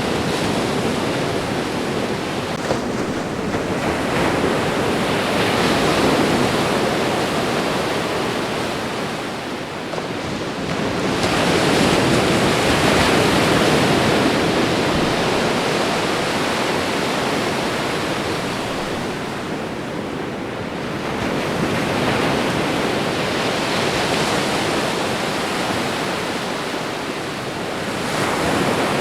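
Ocean waves washing onto a shore: a continuous rush of surf that swells and eases, each wave building up and falling away about every eight to ten seconds.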